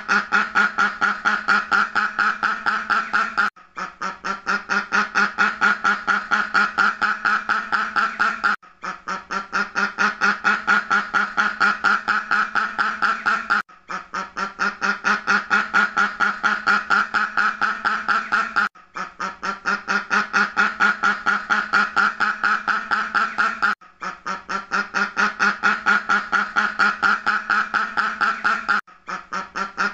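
A duck quacking in a fast, steady run of quacks. The same stretch repeats about every five seconds, with a brief break between repeats and each stretch building up in loudness at its start.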